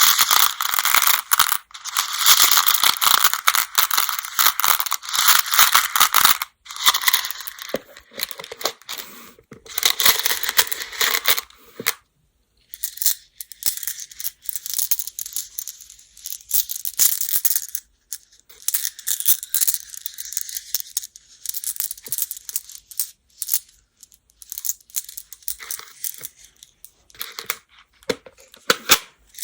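Go (baduk) stones clattering against each other in a dense run of clicks and rattles. After a brief break about twelve seconds in, softer, thinner clicking and scratching follows.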